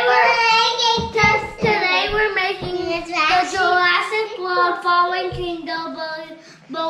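A child singing in a high voice, with long held, sliding notes.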